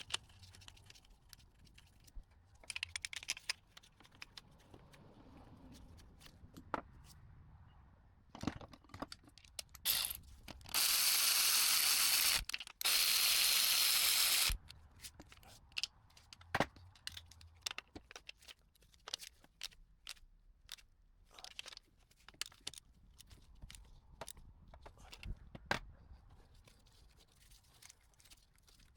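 Hand tools clicking and clinking against metal while the replacement starter is fitted. About eleven seconds in, a power tool runs for roughly four seconds in two runs with a brief break, the loudest sound here.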